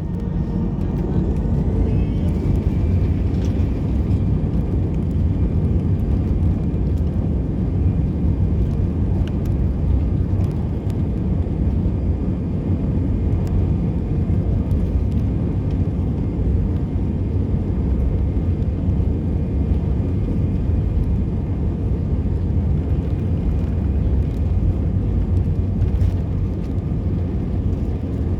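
Cabin noise of a jet airliner taking off: a loud, steady, deep rumble from the engines at take-off power, with a faint whine rising in pitch about two seconds in as the engines spool up.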